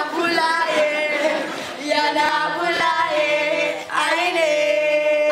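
Several voices singing a chant together without instruments, in long held notes with short breaks between phrases.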